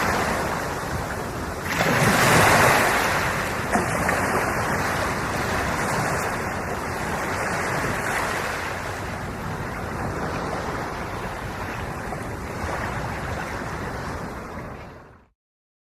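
Ocean waves washing onto the shore as a steady rushing hiss, with a louder surge about two seconds in. It fades out to silence near the end.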